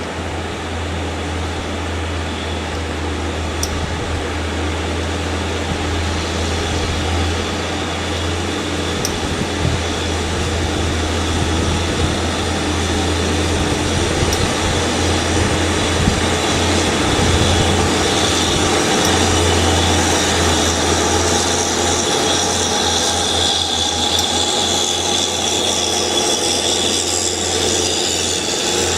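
An engine running steadily, a continuous low hum under a wider mechanical noise that slowly grows louder.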